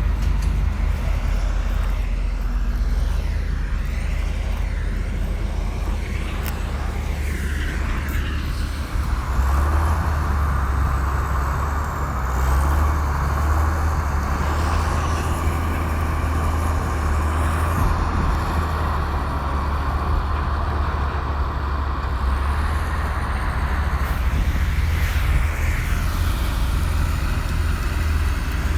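Komatsu bulldozer's diesel engine running steadily with a deep rumble; a brighter, harsher layer of noise joins about nine seconds in and drops away around 24 seconds, as the machine works under heavier load.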